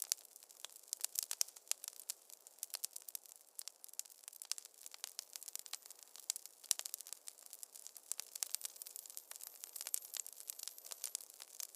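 Wood fire crackling in a fireplace: a dense, irregular run of sharp pops and snaps over a soft hiss.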